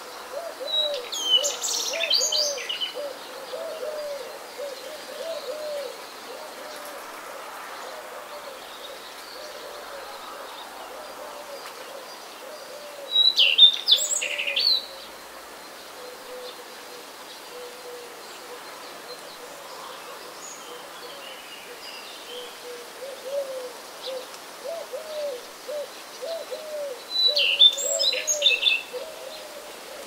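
Birds calling: three short, bright songbird phrases about twelve seconds apart, the loudest sounds, over a run of low calls repeated a few times a second that fade out in the middle and return near the end.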